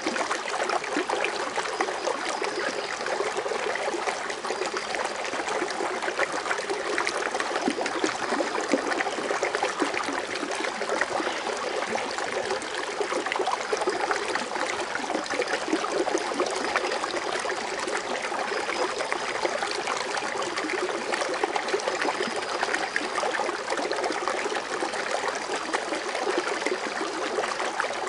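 Water fountain splashing and bubbling steadily, a dense continuous trickle with fine splashes.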